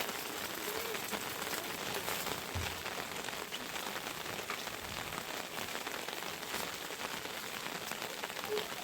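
Steady heavy rain falling, a dense even hiss made of countless small drop impacts.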